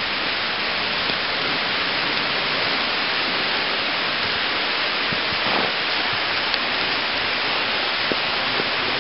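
Heavy hurricane rain falling steadily, an even hiss, with a few faint ticks.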